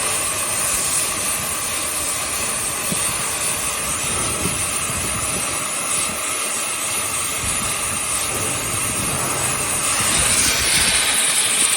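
Oxy-gas CNC cutting torch hissing steadily, growing louder about ten seconds in.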